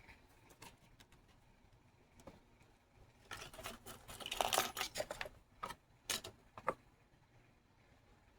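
Small objects being handled: scattered light clicks, with a burst of rustling and scraping in the middle, followed by a few more clicks.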